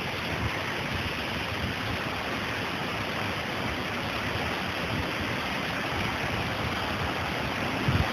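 Heavy storm rain pouring down as a steady, even hiss, with a brief low thump near the end.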